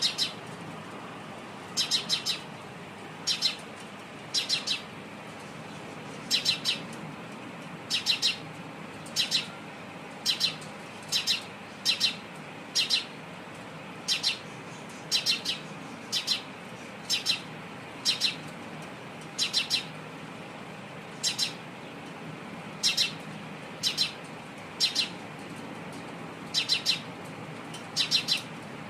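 A sparrow chirping over and over: short high chirps, mostly in quick pairs or threes, repeating about once a second over a steady low background hum.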